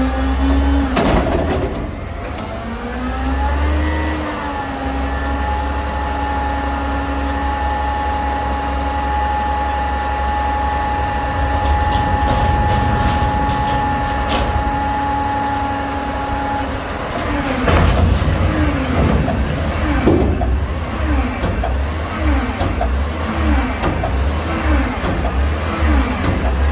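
Garbage truck's diesel engine revving up and holding at a steady raised speed for about twelve seconds, then dropping back to a rougher note that rises and falls a little more than once a second.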